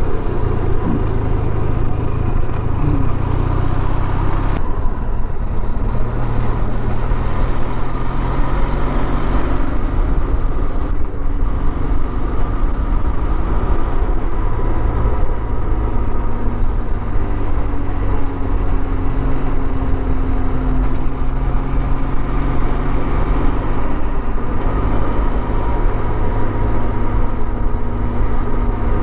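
Benelli TRK 502's parallel-twin engine running steadily under way, with a dense low engine hum and road noise. Its pitch drifts slowly up and down with no sharp revving.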